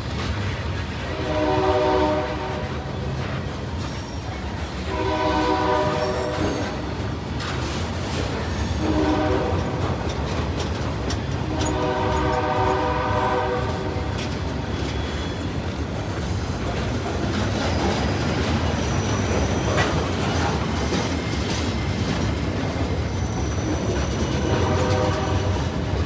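Freight cars rolling past with steady wheel clatter and rumble, while a locomotive's chime horn blows long, long, short, long: the standard grade-crossing signal. Another horn blast comes near the end.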